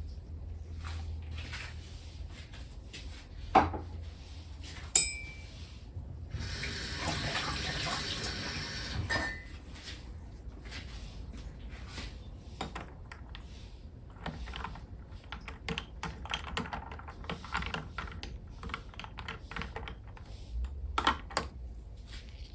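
Kitchen dish sounds: two sharp clinks, then liquid being poured for about three seconds, followed by a run of light clinks and taps.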